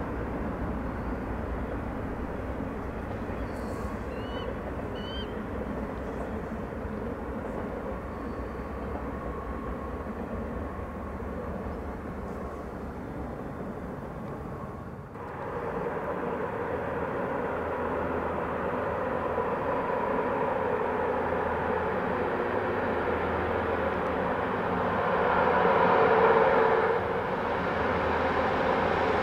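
Steady rumble of a distant freight train's cars rolling along, with a few faint bird chirps about four seconds in. Halfway through, it changes abruptly to a louder vehicle noise that builds, peaks and drops off sharply near the end.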